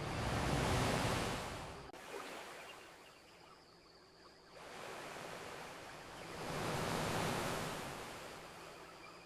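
Ocean waves washing onto a beach: two swells of surf, the first cut off abruptly about two seconds in, the second building a few seconds later and slowly fading.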